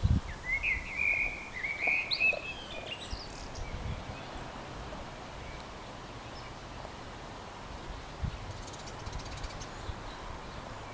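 A bird chirping and warbling for about two and a half seconds near the start, over a steady faint outdoor background with a few low rumbles in the first seconds.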